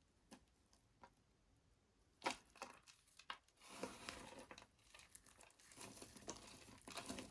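Knife cutting through a bar of dry soap: a sharp snap a little past two seconds in and a few clicks, then a dense crisp crackling from about halfway on.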